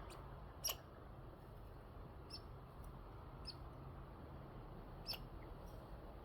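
Faint, short, high squeaks from squirrels, four or so spread over several seconds, the sharpest about a second in.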